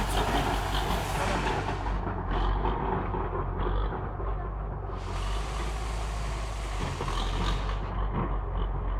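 DT-75 crawler tractor's diesel engine running steadily with a low rumble, a harsher clattering noise above it fading for a few seconds and coming back.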